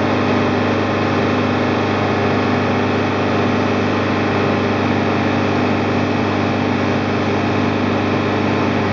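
Toyota AE86's 4A-GEU 1.6-litre twin-cam inline-four engine running at a steady, unchanging speed.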